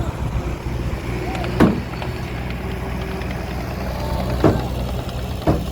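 Heavy diesel engine running steadily, with three sharp knocks: one about a second and a half in, one near four and a half seconds, and one near the end.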